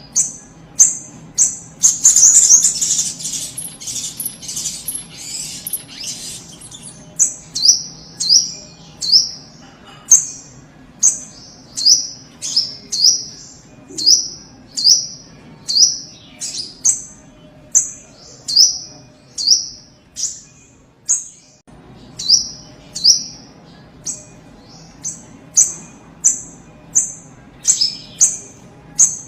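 Little spiderhunter (sogok ontong) calling vigorously: short, high, downward-sweeping notes repeated about once a second, with a louder, harsher chattering burst a couple of seconds in.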